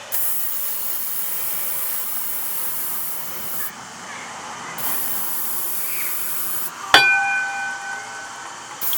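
Aerosol can of Lucas Tool Box Buddy penetrating oil spraying into the spark plug holes of a seized snowmobile engine to free it, in three long hissing bursts with short breaks between them. About seven seconds in there is a sharp metallic clink that rings briefly.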